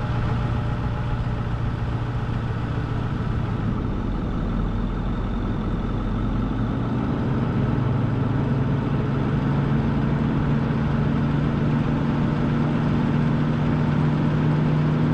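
Vehicle engine and road noise while driving, a steady hum whose pitch rises slightly about halfway through as the vehicle picks up speed.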